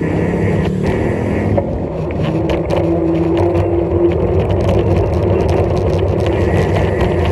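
Steady road-traffic noise while riding: a motor vehicle running along a road, with a steady tone for a couple of seconds near the middle.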